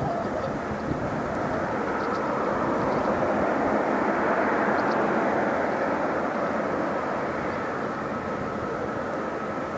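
A heavy truck passing by, its engine and tyre noise swelling to a peak about halfway through and then fading.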